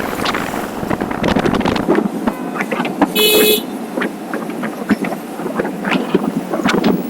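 Wind buffeting the microphone of a moving motorcycle. About three seconds in, a vehicle horn gives one short beep of about half a second.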